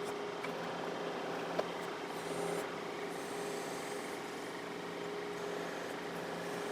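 John Deere 4052R tractor's diesel engine running steadily while it works the backhoe, with one sharp click about one and a half seconds in.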